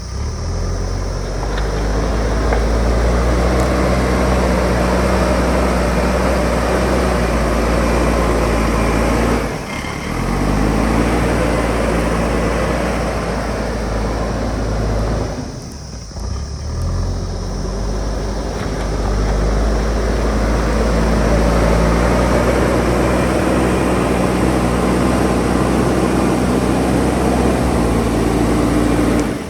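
JCB backhoe loader's diesel engine running under load, with a deep steady rumble. It drops briefly about ten and sixteen seconds in, then revs back up, its pitch rising.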